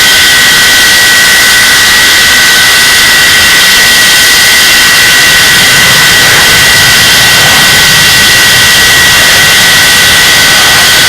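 English Electric Lightning's Rolls-Royce Avon turbojet engine running steadily on a ground run. It is very loud: a constant rushing noise with two steady, high whining tones over it.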